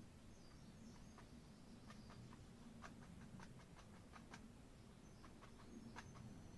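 Near silence with faint, irregular light ticks: an oil-paint brush dabbing highlights onto the canvas.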